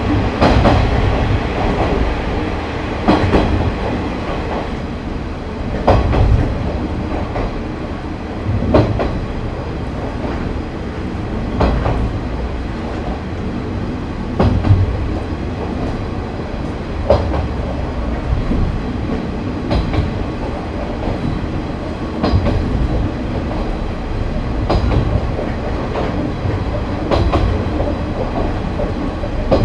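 KiHa 30 diesel railcar running along jointed track at a steady pace, with a steady low rumble. The wheels clack over a rail joint about every two and a half to three seconds.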